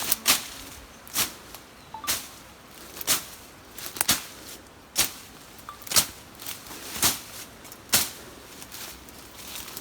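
A series of sharp knocks, evenly spaced about one a second, nine in all, over a faint background hiss.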